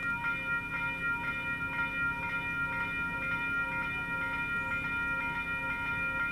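Western Cullen Hayes electronic crossing bells ringing at an activated level crossing: a steady electronic gong struck about twice a second. Underneath runs a low steady hum.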